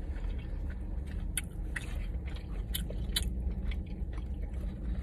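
A person chewing and biting food close to the microphone, with irregular crisp crunching clicks.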